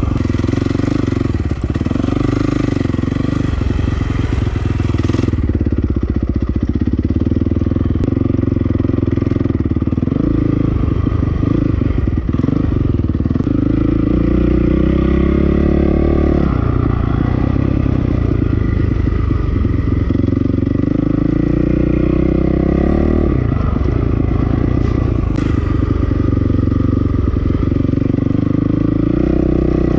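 2008 Honda CRF450R's single-cylinder four-stroke engine being ridden, its revs rising and falling with the throttle; the pitch climbs steadily twice in the second half before dropping back.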